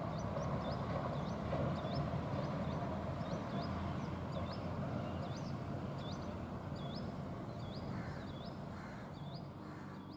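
Indian chat (brown rock chat) calling over and over: short, high hooked notes, about two a second, over a steady low background noise.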